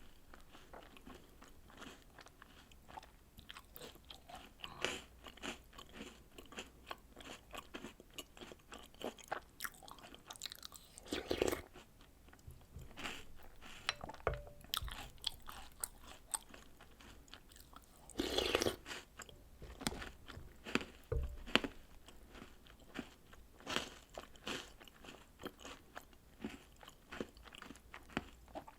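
Close-miked chewing and crunching of milk-soaked chocolate biscuits and cereal: a steady run of small crunches, with two longer, louder crunches about a third and two-thirds of the way through.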